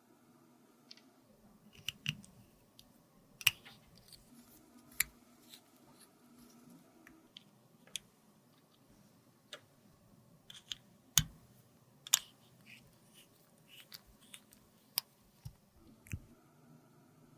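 Scattered sharp clicks and taps of tools and cosmetic cases being handled during a makeup repair, about a dozen at irregular intervals with faint rustling between.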